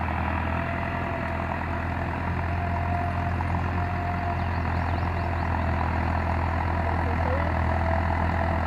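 Massey Ferguson 385 tractor's diesel engine running steadily, with a thin steady whine above the low engine hum.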